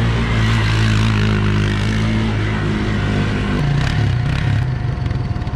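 A vehicle engine running steadily, then dropping to a lower, rapidly pulsing idle about three and a half seconds in.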